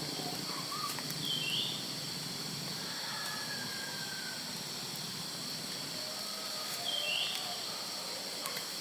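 A steady, high-pitched drone of forest insects, with a bird giving the same short falling call twice, about six seconds apart, and a few faint whistled notes between.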